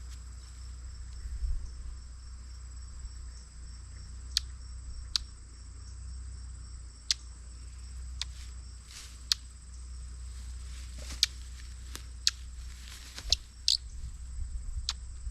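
Steady high-pitched insect trilling, as of crickets. Sharp clicks or chips break in every second or so from about four seconds in, two of them close together near the end.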